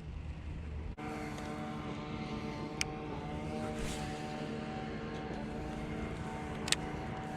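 An engine running steadily, a hum of several steady tones that begins after a sudden break about a second in. Two sharp clicks cut through it, one near the middle and one near the end.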